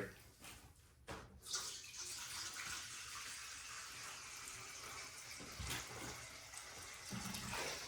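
Water running steadily from a tap into a dog's water bowl, filling it. The flow starts about a second in and stops near the end.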